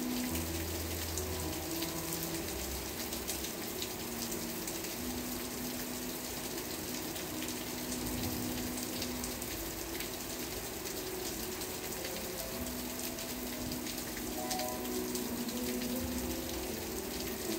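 Steady rain falling, a hiss of many small drop ticks, with soft background music of long held low notes that change slowly.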